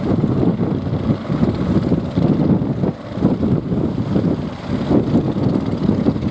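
Strong wind buffeting the microphone in an uneven low rumble, mixed with the running engines of small fishing boats.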